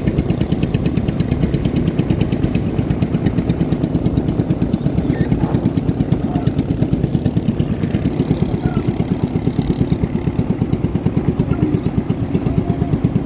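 Boat engine running steadily at close range, with an even rapid beat of about ten pulses a second.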